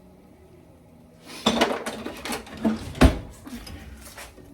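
Cookware clatter: a kitchen utensil knocking and scraping in a pan of cooking potatoes and onions, starting about a second and a half in, with one heavy knock about three seconds in.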